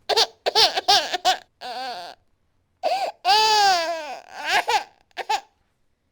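A baby crying in a rage, in short choppy sobs, then one longer wailing cry about three seconds in, followed by a few more short sobs.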